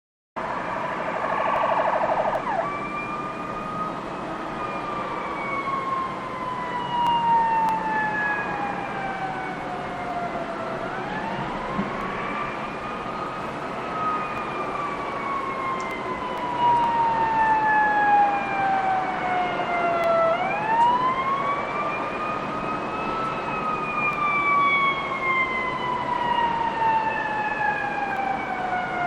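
Ambulance siren that starts with about two seconds of fast warble, then switches to a slow wail: the pitch climbs over about three seconds and sinks slowly over about six, the cycle repeating about every nine to ten seconds.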